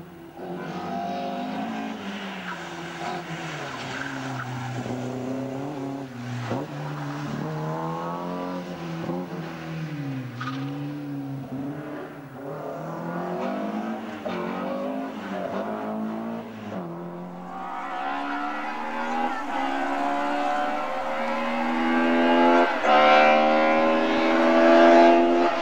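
Opel Kadett C Coupé's engine revving hard and backing off in quick swings as it is driven through a slalom. About two-thirds in the sound changes abruptly to a louder rally car accelerating hard, its engine pitch climbing, dropping at a gear change and climbing again.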